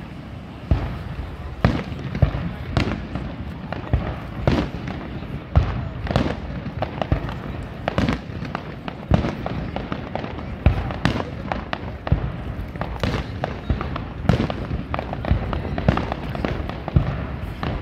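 Aerial fireworks shells bursting in quick succession, a sharp bang every half second to a second, each followed by a short rumbling echo.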